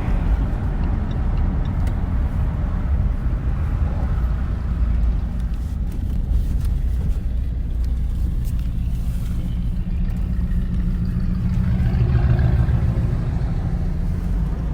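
An older supercar's naturally aspirated V8 engine running steadily with a low, even note, swelling a little about twelve seconds in.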